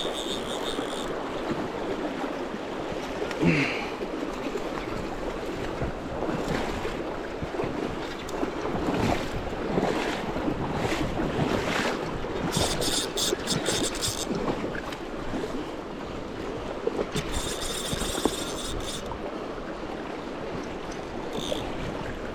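River water rushing and splashing, with irregular splashes throughout and two short bursts of high hiss a little past halfway.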